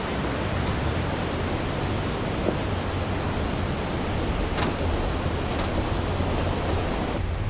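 Pickup truck driving on a rough dirt mountain road: a steady rushing of tyre and wind noise over a low engine hum, with a few faint ticks. Near the end the sound changes abruptly and the engine hum comes up stronger.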